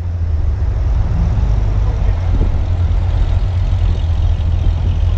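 American V8 car's engine and exhaust droning steadily while driving.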